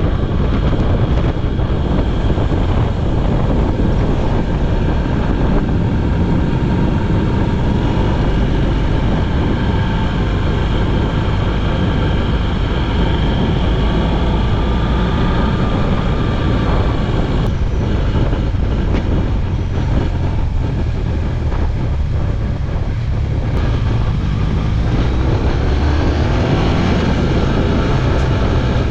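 BMW R1200GS Adventure's boxer-twin engine running at road speed under heavy wind rush. The engine pitch rises near the end as the bike accelerates.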